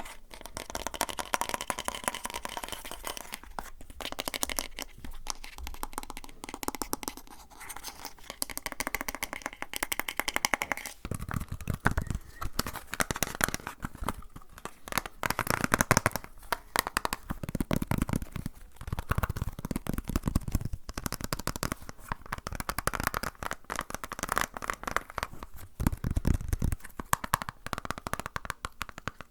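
ASMR trigger sounds made by hand right at the microphone: crinkling, scratching and rustling with many quick clicks, joined about eleven seconds in by heavier low thumps and handling noise.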